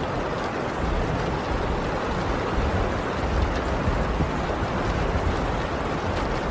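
Heavy rain on a tin roof: a dense, steady downpour hiss with faint scattered drop ticks and a deep low rumble underneath.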